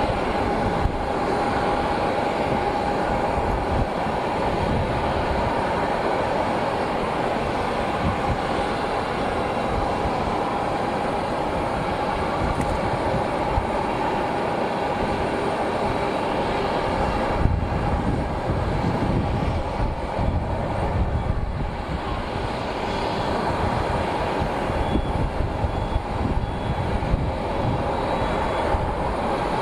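Jet aircraft engines running steadily: a constant whine over a low rumble.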